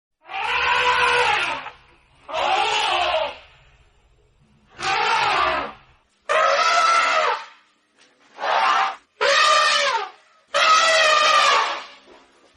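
Elephant trumpeting: seven loud, shrill calls, each about a second long, with short pauses between them.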